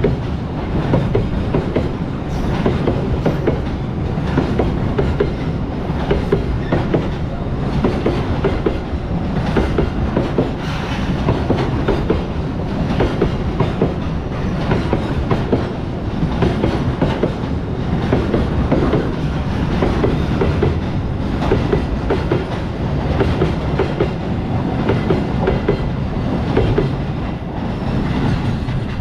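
A train running past on the rails, its wheels clattering steadily over the rail joints in a continuous clickety-clack.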